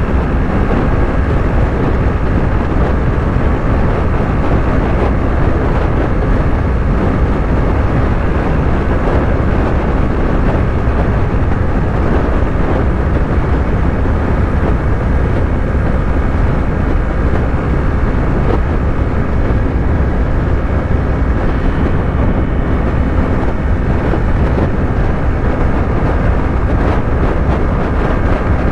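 Yamaha YZF-R3's 321 cc parallel-twin engine running at a steady highway cruise, with heavy wind rush over the rider's microphone.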